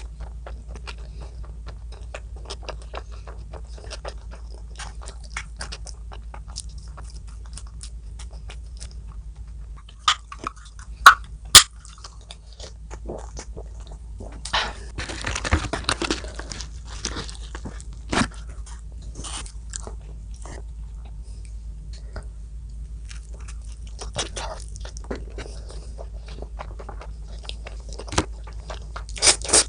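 Close-up eating sounds: a person chewing and biting food, with many small wet clicks and crunches. Two sharp, loud clicks come about a third of the way through, and a few more loud ones near the end.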